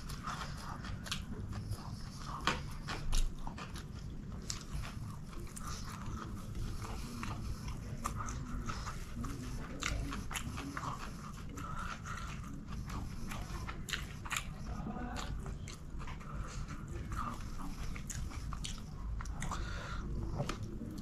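Close-miked chewing and wet mouth clicks of a man eating chicken biryani with his hand, with soft sounds of fingers working the rice, over a steady low hum.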